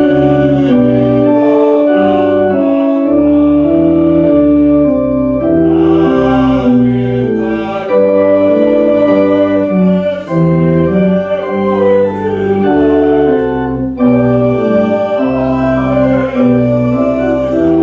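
Organ playing a hymn tune in sustained chords that change about every half second over a moving bass line.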